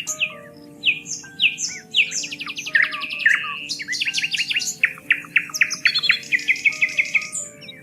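Several songbirds singing and chirping over one another, a dense mix of rapid trills, quick downward-sweeping chirps and short calls. Soft, steady held low tones lie beneath.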